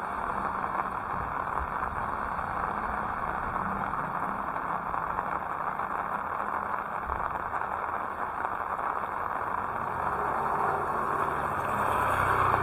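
Heavy rain falling in a steady hiss, growing somewhat louder near the end.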